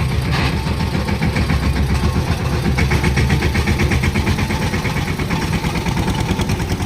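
Vehicle engine running steadily with a fast, even beat, loud and close.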